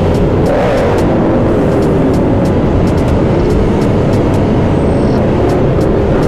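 Motorcycle engine running at riding speed under heavy wind noise on the helmet-mounted camera's microphone, its pitch wavering as the throttle changes, with other motorcycles around.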